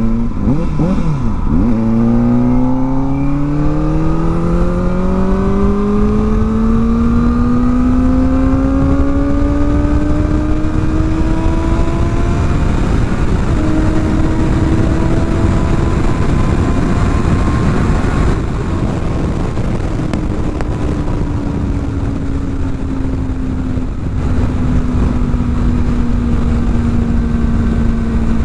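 Kawasaki Ninja ZX-4R's inline-four through a new aftermarket exhaust, under way. The engine note climbs steadily for about ten seconds under acceleration, breaks briefly at a gear change, rises a little more, then falls away as the throttle eases and settles to a steady cruise. Wind rush runs underneath.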